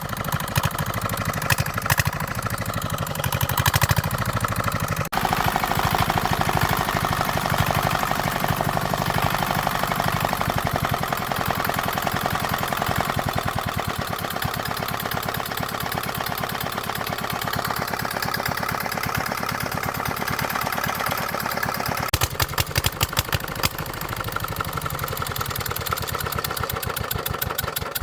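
A small engine running with a steady, rapid firing beat, its note rising sharply about five seconds in and changing again near the end.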